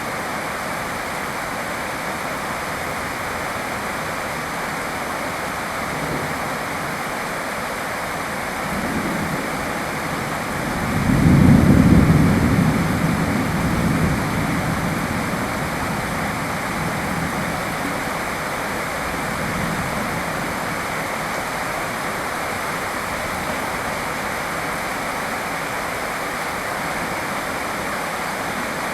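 Steady rainfall, an even hiss throughout. About ten seconds in, a low rumble swells up and dies away over a few seconds.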